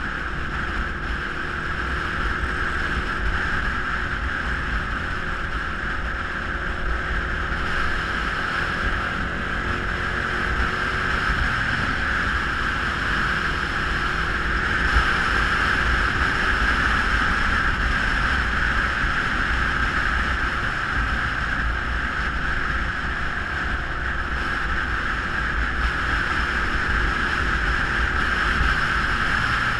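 Geon Scrambler 250 motorcycle on the move: steady wind rush over the microphone, with the engine's low note underneath shifting slightly in pitch.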